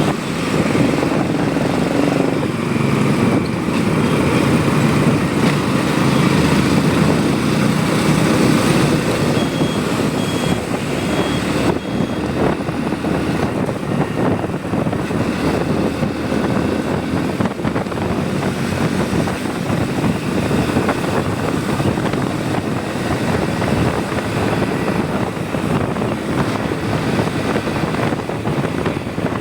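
A motorcycle on the move, heard from the rider's position: steady engine and road noise with wind across the microphone. The low engine sound is strongest for the first several seconds, then eases off.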